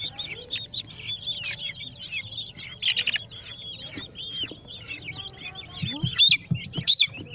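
A batch of young chicks peeping without a break, many short arched cheeps overlapping. A couple of louder bumps near the end.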